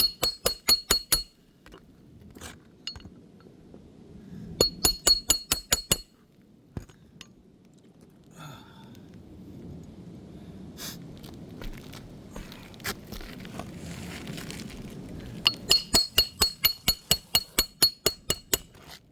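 Hammer striking the steel bar of a roof snake shingle-repair tool in quick runs of ringing metal blows, about six a second, driving roofing nails back into the shingle. There are three runs, the longest near the end, with quieter scraping and handling between them.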